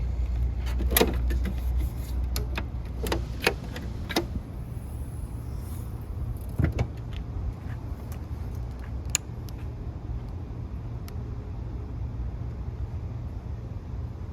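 1998 Toyota Land Cruiser engine idling steadily just after a cold start. Several sharp clicks and knocks land over the first few seconds, with one more about halfway through.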